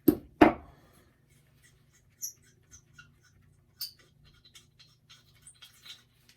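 Two sharp knocks about a third of a second apart, then scattered light clicks and clinks of hand tools working on the engine parts.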